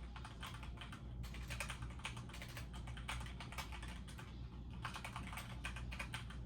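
Computer keyboard being typed on: a quick, irregular run of key clicks that thins out briefly about four seconds in, over a steady low hum.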